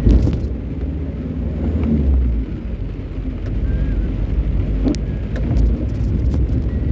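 A vehicle's engine running low and steady with road noise. There is a thump right at the start and a few light clicks.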